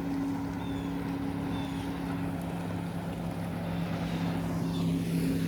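Speedboat engine running steadily as the boat passes on the lake, a constant drone that grows a little louder in the second half.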